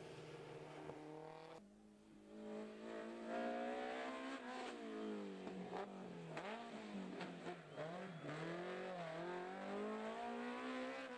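BMW M3 (E30) rally car engine revving hard on a tarmac stage. After a short break about two seconds in, its pitch climbs and drops again and again with gear changes and lifts through the corners.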